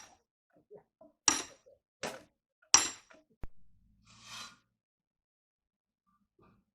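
Four sharp knocks or clinks in the first three seconds, a single click, and a short rustle-like burst, then almost nothing.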